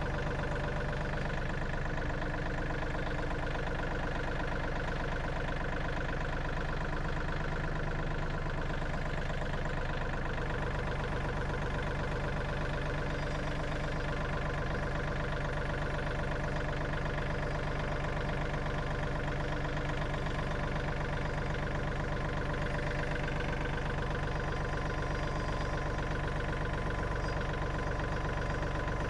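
An engine running steadily at a constant idle-like speed, with no change in pitch.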